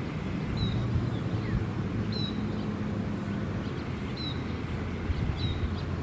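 Four short, high chirps from a small bird, spaced a second or two apart, over a steady low outdoor rumble with a faint hum.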